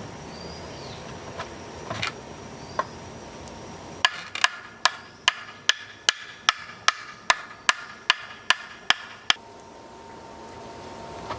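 Hammer-like knocks on a hard, woody material. After a few scattered knocks comes a steady run of about thirteen strikes, roughly two and a half a second, each with a short ring, and then they stop.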